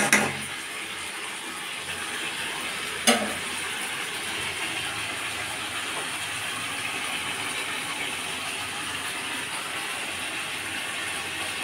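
Chicken and potatoes sizzling steadily in oil and masala in a metal kadai, the dry-frying (kosha) stage of a chicken curry, with one metal clank about three seconds in.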